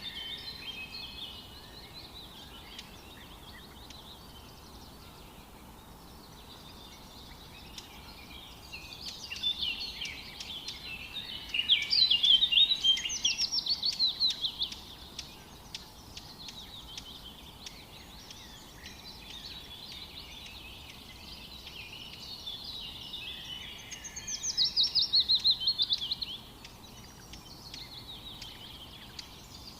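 Several songbirds singing in a forest, with bursts of rapid high chirping notes. Two loud phrases of quick falling trills stand out, one about twelve seconds in and another near the end, over a faint steady hiss of ambient noise.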